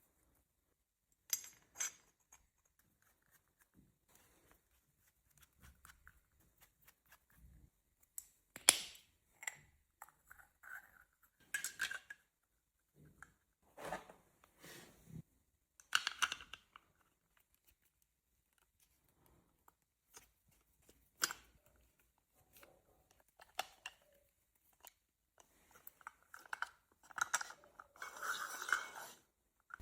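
Small parts and hand tools being handled during assembly of a model turbofan engine kit: scattered sharp little clicks and taps with short rustles, and a longer scraping rustle near the end.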